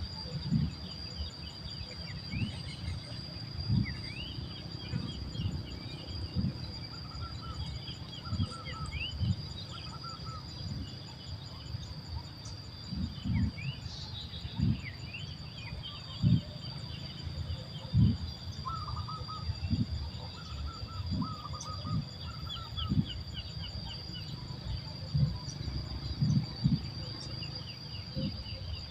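Small birds chirping in short, quick notes, with groups of lower repeated call notes, over a steady high insect drone and irregular low thumps.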